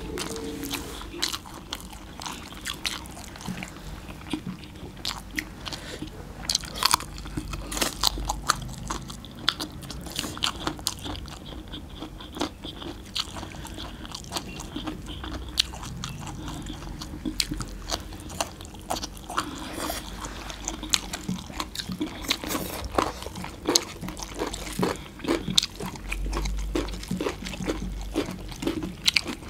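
Two people eating rice and mutton curry with their hands: chewing and crunching mouth sounds, with many sharp clicks throughout.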